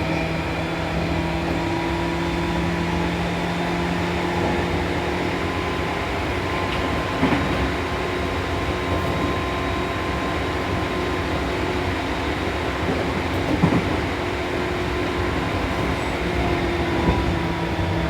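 Seibu New 2000 series electric commuter train running, heard from inside the car: a steady rumble of wheels on rail with a motor hum that fades out a few seconds in and comes back near the end, and a couple of brief knocks from the track.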